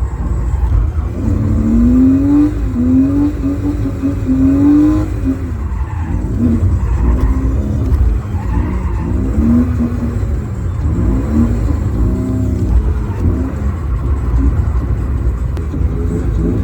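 BMW E36's 2.8-litre M52TU inline-six breathing through an M50B20 intake manifold, with loud induction noise, revving up and falling back again and again as it is driven hard. A heavy low rumble runs underneath.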